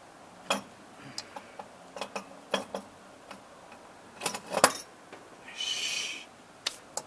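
Scattered sharp metal clicks and knocks of hand work as a spare carburetor is set onto the engine and fastened, the loudest a quick cluster of knocks a little past the middle. A short scraping hiss follows soon after.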